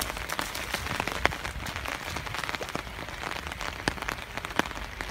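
Rain falling on a flooded field: an even hiss with many scattered sharp ticks of drops hitting water and mud.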